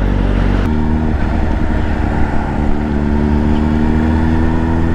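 Sport bike engine idling steadily in stopped traffic, with an even low hum and no revving; the pitch shifts slightly about a second in.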